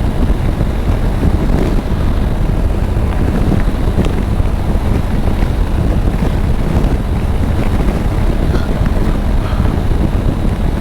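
Wind rushing over a helmet-mounted microphone at highway speed, over the steady drone of a Triumph Tiger 900's engine.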